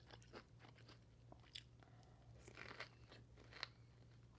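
Faint close-up chewing: a person eating, with irregular soft crunches and mouth clicks.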